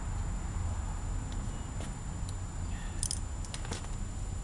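A few light clicks and taps of hand tools and parts being handled while an alternator is refitted, several close together about three seconds in, over a steady low rumble.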